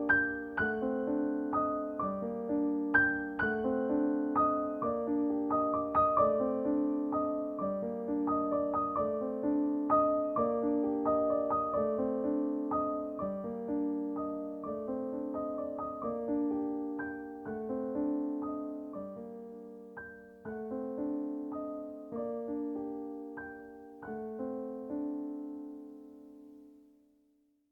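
Background piano music: a slow, gentle piece of repeated chords and melody notes that thins out and fades to silence near the end.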